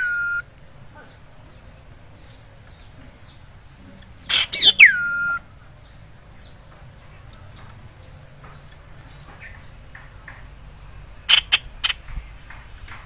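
Sirtu (cipow) bird calling: a loud harsh burst running into a whistle that slides steeply down and is held for a moment, once as it begins and again about four seconds in. Faint short chirps run throughout, and a quick run of sharp notes comes near the end.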